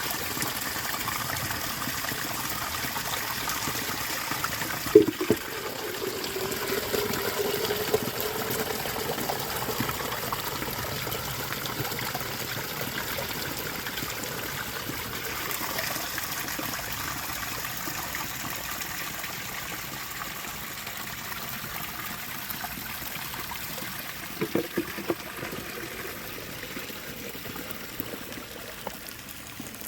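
Water running steadily, with a sharp knock about five seconds in and a few lighter knocks near the end.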